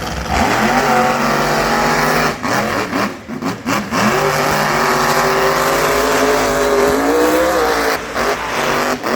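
Monster truck engine revving hard under full throttle in a drag run, its pitch climbing. The revs stutter briefly about three seconds in, climb again, drop near the end, then rise once more.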